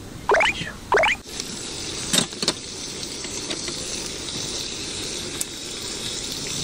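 Sausages sizzling on a small griddle plate over a gas camping stove: a steady frying hiss that grows from about a second in, with a couple of sharp metal tong clicks about two seconds in. Two short rising chirps sound in the first second.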